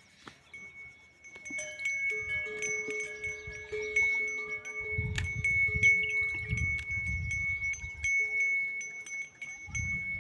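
Metal bells worn by cattle clanking and ringing over and over, several bells at different pitches, as the animals move. Low dull thumps come through in the middle.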